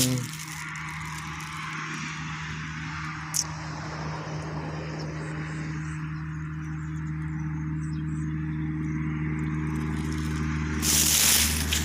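Steady hum of a motor vehicle's engine running. A sharp click comes about three and a half seconds in, and a louder rush of noise near the end.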